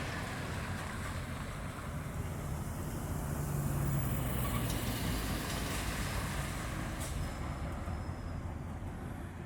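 Rolls-Royce Dart turboprop engines of a YS-11 running, a steady drone with a low hum that swells a little a few seconds in and eases toward the end.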